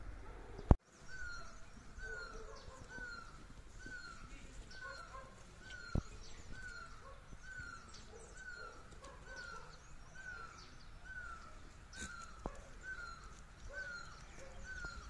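A bird calling steadily, one short falling note repeated about twice a second, with fainter higher chirps. A single loud sharp click comes about a second in.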